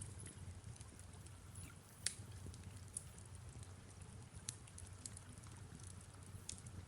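Fireplace crackling: sparse sharp pops, the loudest about two seconds in, over a soft steady low rumble.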